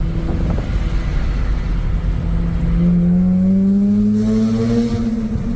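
Mazda RX-8's twin-rotor rotary engine on the move. Its note rises steadily as the car accelerates from about three seconds in, then settles back lower near the end.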